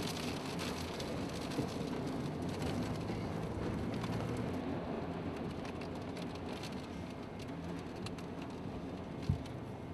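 Steady rush of rain and storm wind with a low hum underneath, and a single short knock near the end.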